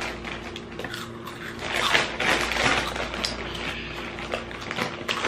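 Crunchy Flamin' Hot Cheetos being chewed, a run of crisp crunches that is busiest about two seconds in, over a faint steady hum.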